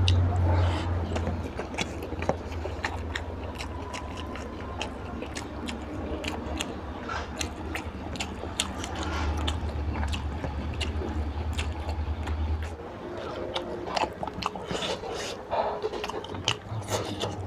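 Close-miked eating: wet chewing, lip smacking and crunching of mouthfuls of rice, oily mutton fat curry and fried fish, as a dense run of small mouth clicks. A steady low hum runs underneath and stops about three-quarters of the way through.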